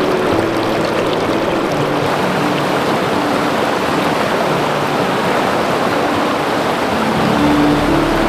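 Forest stream rushing steadily over rocks, close to the microphone. Soft low notes of background music change pitch every second or so beneath the water.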